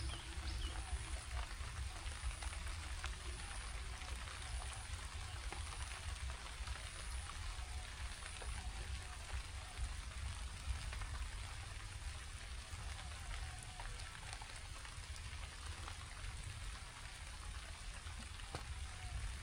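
Steady rain falling, with scattered drop ticks over a low rumble.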